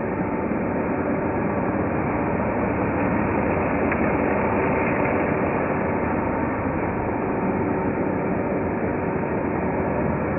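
1993 Hoover Turbopower 2 U2464 vacuum cleaner running steadily, a motor whine over the rush of air.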